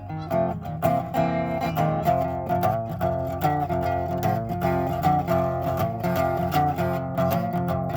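Guitar played as a blues, with plucked and strummed notes and chords.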